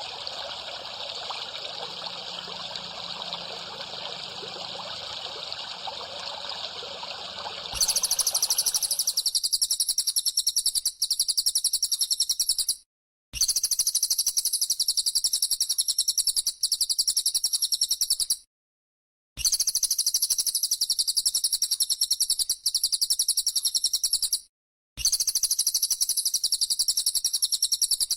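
Water trickling for about eight seconds, then a loud, high, rapidly pulsing buzz of a bren cicada in stretches of about five seconds, broken by three short silences.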